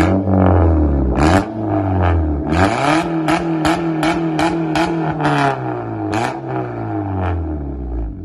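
Honda Civic four-cylinder engine revved through a muffler-deleted exhaust, its pitch climbing about two and a half seconds in, held high for several seconds, then falling away near the end. Sharp cracks sound at about three a second while the revs are held high.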